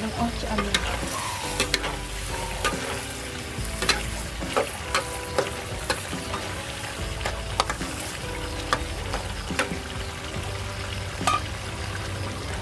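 Duck meat and peppers frying and sizzling in a metal pan over a wood fire while being stirred by hand with a utensil. Irregular sharp clicks come through the steady sizzle.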